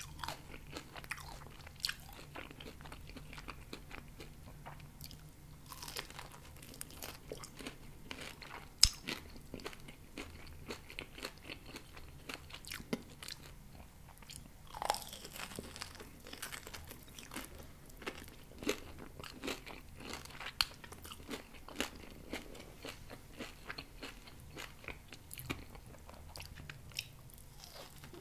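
Close-miked chewing and biting of grilled pork rib meat, with many irregular sharp clicks and crunches from the mouth.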